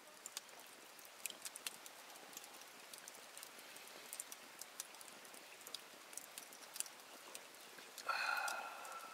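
Campfire of dry firewood burning with only sparse, faint ticks and crackles over a low steady hiss. About eight seconds in, a louder sound of about a second with a steady high tone.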